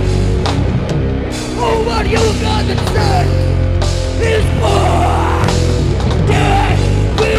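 Live rock band playing loudly: heavy, distorted rock with pounding drums and a vocalist singing over it.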